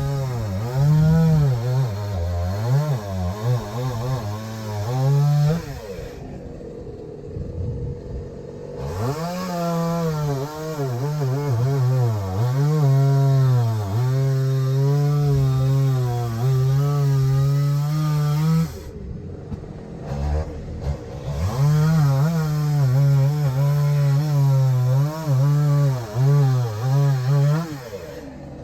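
Two-stroke chainsaw cutting through logs in three long runs, its pitch sagging and recovering as the chain bites. Between cuts, about six and nineteen seconds in, it drops back briefly.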